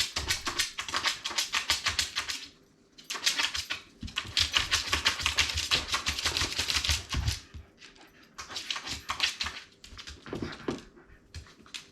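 A Shiba Inu's claws clicking and scrabbling rapidly on a hard floor as she paws at and attacks a ball, in three quick bursts: a short pause about two and a half seconds in, and another from about seven seconds in.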